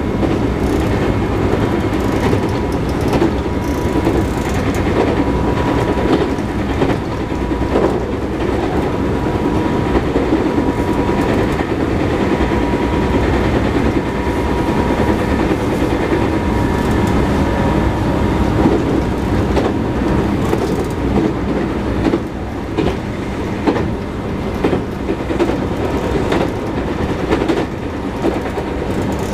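Running noise inside a JR West 221 series electric train at speed: a steady rumble with wheel-on-rail clatter and a thin steady whine. Mixed in is the knocking of a wheel flat, a flat spot on a wheel tread.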